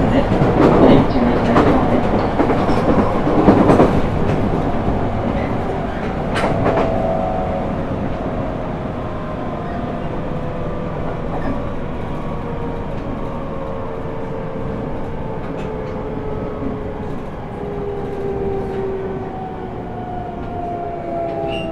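Toyo GTO-VVVF inverter and traction motors of a JR East E127-0 series electric train in regenerative braking: several whining tones slide slowly down in pitch as the train slows, over rail running noise with occasional clicks. The running noise is loudest in the first few seconds.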